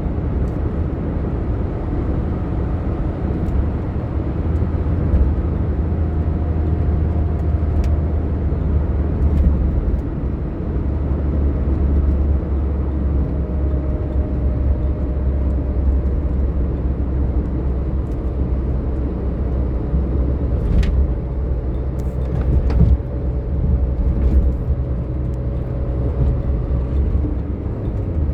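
A car driving on the road, a steady low rumble of engine and tyres throughout, with a faint whine slowly falling in pitch and a few light clicks.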